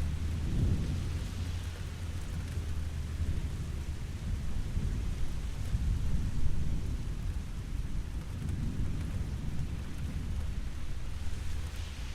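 Steady rain with a continuous low rumble of thunder, swelling near the start and again about two-thirds of the way through.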